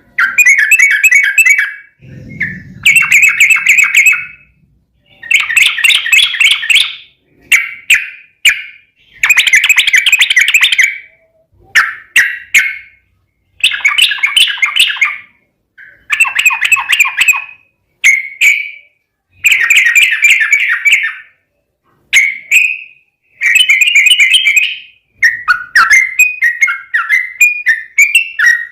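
Yellow-vented bulbul (trucukan) song: loud bursts of rapid, chattering notes, about a dozen phrases of one to two seconds each with short pauses between. A brief low rumble sounds about two seconds in.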